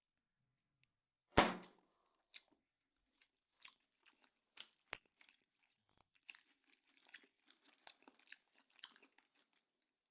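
A person chewing a mouthful of stewed beef cheek and bread, with scattered small mouth clicks and smacks. One sharper, louder knock comes about a second and a half in.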